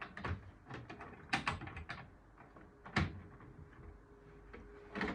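Clicks and knocks of plastic model railway wagons being handled and uncoupled by hand on the track, with two sharper knocks about a second and a half and three seconds in.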